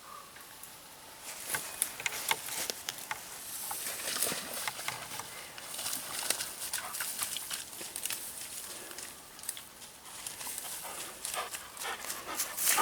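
Footsteps pushing through tall dry grass and brush: irregular rustling and crackling steps.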